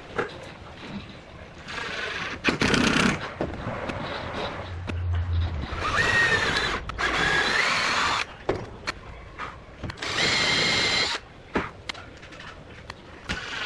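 A small electric power tool's motor, drill-like, running in short spells: it whines up and shifts pitch about halfway through and again near the end. Knocks and workshop clatter come in between.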